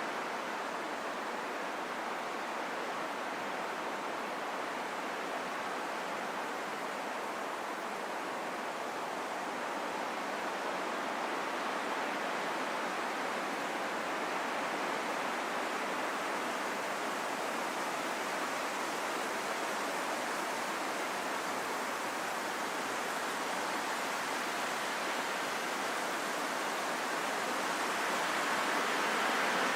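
Calm wind, a steady smooth rushing with no gusts or howls, swelling gradually louder near the end.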